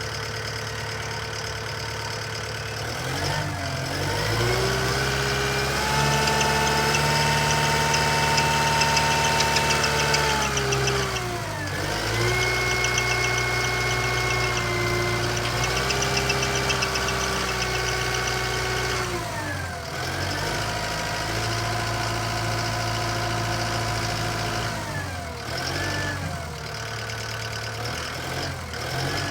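2014 Kubota M108S tractor's four-cylinder turbo diesel engine running. It is revved up a few seconds in and held, drops back briefly, then is revved and held again. It then settles to a lower speed, with a short dip near the end.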